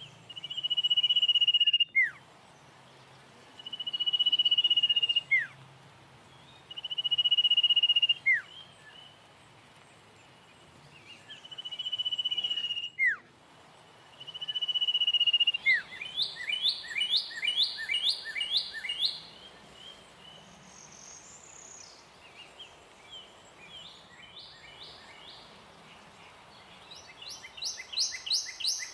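Bird calls: a long, steady high whistle that swells and ends in a quick downward slur, given five times about every three seconds. In the second half these give way to bursts of rapid chirping trills.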